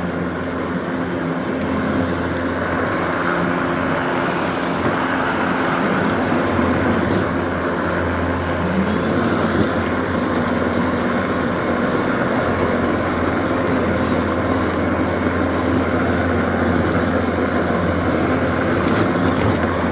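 Battery-powered electric push lawn mower running steadily while cutting grass, a constant whirring hum of the motor and spinning blade.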